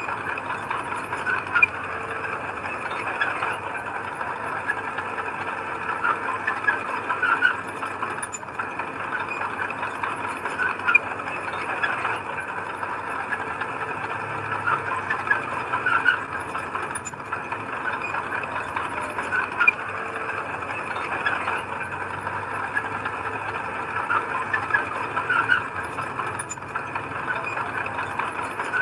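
Heavy earthmoving machinery at work: a diesel engine running steadily, with irregular small clanks and rattles throughout.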